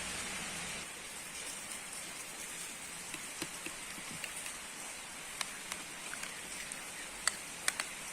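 Steady rain falling with an even hiss. Scattered sharp ticks, like drops striking a hard surface, come more often in the second half, the loudest near the end.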